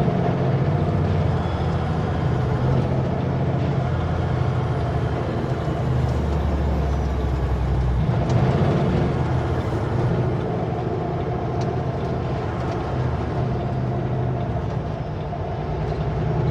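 Kenworth W900L semi truck's diesel engine running on a steep mountain downgrade, under steady road and wind noise. The low engine note changes about eight seconds in.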